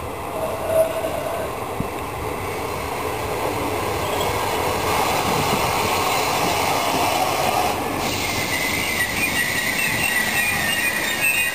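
Electric locomotive-hauled passenger train running past close by, a steady rumble of wheels on rail growing louder as the coaches go by. High-pitched metallic wheel squeal joins in from about eight seconds in.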